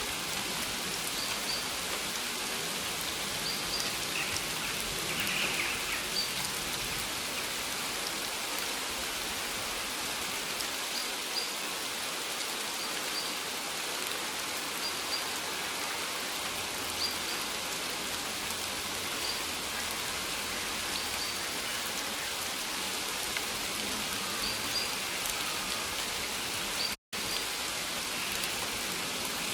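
Steady rain falling and pattering on surfaces, with faint short high chirps recurring every second or two. The sound cuts out for an instant near the end.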